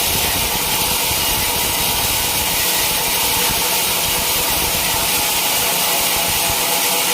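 Band sawmill blade running steadily through a teak log, a continuous loud hiss with a faint steady machine hum underneath; the low rumble drops away near the end.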